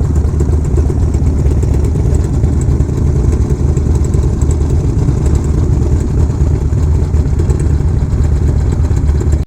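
Motorcycle engine running steadily at an even, low speed, its sound mostly low-pitched.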